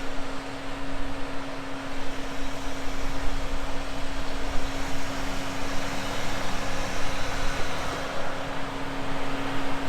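Four-wheel-drive vehicle running, with a steady whine that stops right at the end, over a rough, fluctuating rumble.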